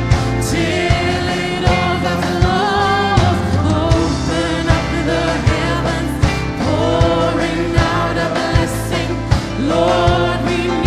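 A song: a voice singing a melody over a steady beat of about one drum hit every 0.8 seconds.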